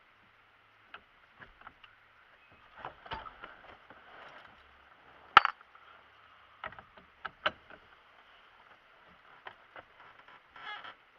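Irregular clicks, knocks and brief rustling, with one sharp click about five seconds in.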